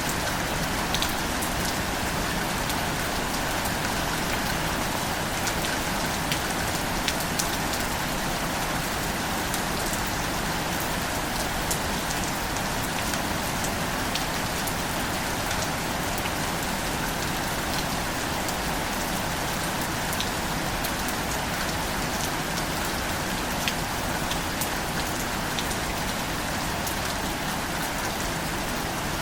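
Steady rain falling on a surface, a dense even hiss dotted with the small ticks of individual drops.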